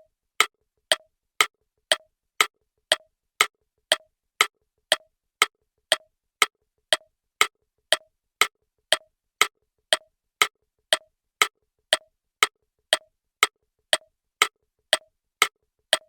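Ticking countdown-timer sound effect: sharp, even clock-like ticks at about two a second, marking the time allowed to solve the puzzle.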